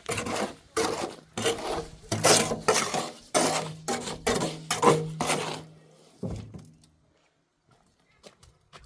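A large animal calling: a loud series of rhythmic, pitched cries, several a second, that stops about six seconds in.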